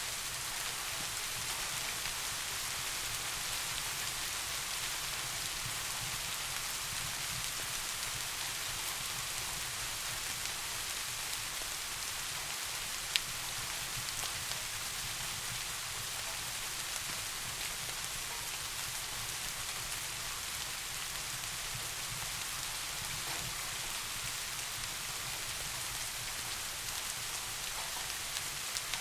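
Steady rain falling in an even hiss, with a low rumble underneath. A single sharp click stands out about halfway through.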